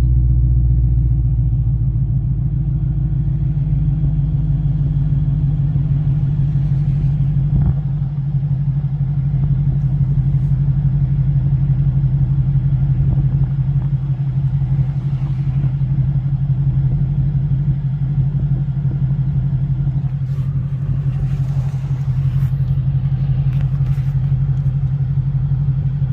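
2017 Shelby GT350's 5.2-litre flat-plane-crank V8 running at a steady cruise, a constant low drone under road noise, heard from inside the cabin.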